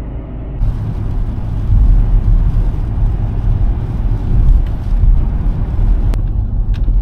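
Car interior road noise while driving: a steady low rumble of engine and tyres with a hiss over it, growing louder within the first two seconds, and a single sharp click about six seconds in.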